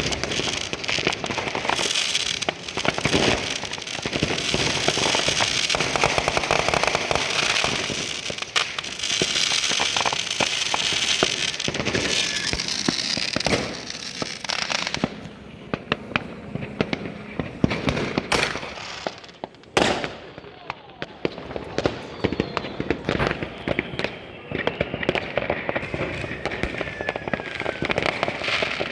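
Fireworks and firecrackers going off all around in a dense, continuous crackling and banging. About halfway through it thins out to separate bangs and crackles, with two sharp loud bangs a little past the middle.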